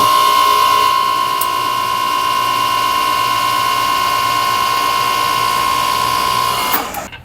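Hose-crimping machine running as it crimps the ferrule onto a hose: a loud, steady whine with several overtones. It starts suddenly, holds for about seven seconds and dies away near the end.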